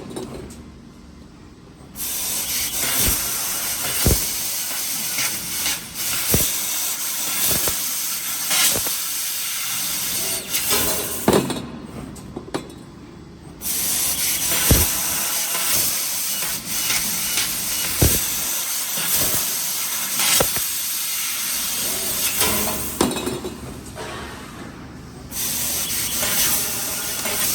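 Steady hiss of a CNC laser cutter's assist gas during cutting, broken by sharp knocks every second or two. The hiss stops briefly three times, at the start, about halfway through and near the end.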